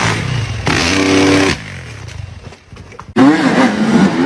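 Dirt bike engine revving hard, holding a high steady pitch, then dropping away about a second and a half in. Near the end it comes back loud, its pitch rising and falling as the throttle is worked.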